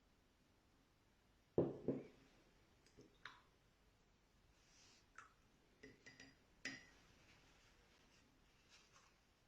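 Scattered light knocks and clicks of small objects handled while painting stones, with two louder knocks about a second and a half in and fainter clicks after.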